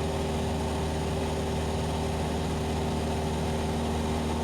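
Cessna 172SP's four-cylinder piston engine and propeller droning steadily in level cruise, an even hum with no change in pitch.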